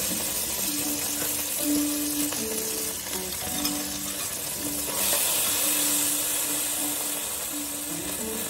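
Sliced garlic sizzling in hot oil in a pan as sauce is spooned in; the sizzle grows louder about five seconds in. Background music with held notes plays throughout.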